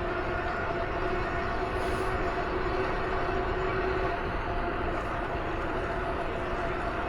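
A vehicle running at a steady speed: a held engine drone over continuous rushing road and wind noise.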